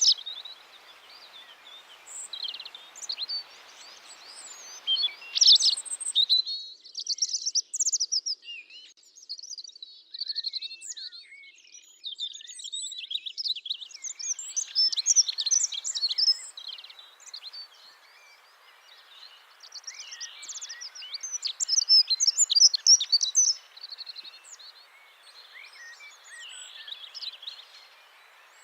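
Small songbirds chirping and trilling in quick, overlapping calls, over a steady background hiss that drops away for several seconds after about six seconds in, then comes back.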